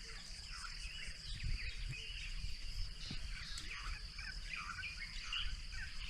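Birds chirping and calling in quick short notes over a steady high-pitched insect drone, with a low rumble of outdoor background noise underneath.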